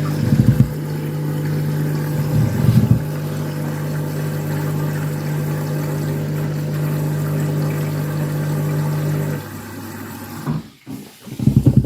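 Heavily overloaded front-loading washing machine running in the early part of its wash after the first fill: a steady mechanical hum with two brief louder surges in the first three seconds. The hum cuts off about nine and a half seconds in.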